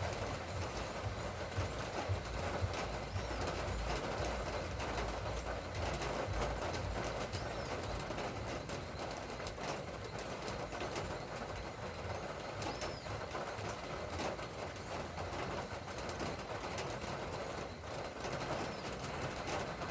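Light rain falling steadily, an even hiss dense with the small ticks of drops landing, and a few faint bird chirps.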